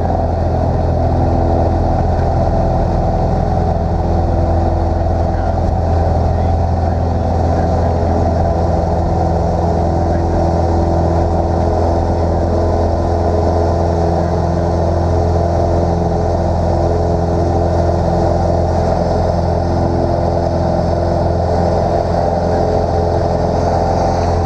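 Cessna 150's four-cylinder Continental O-200 engine running steadily, heard loud inside the small cockpit.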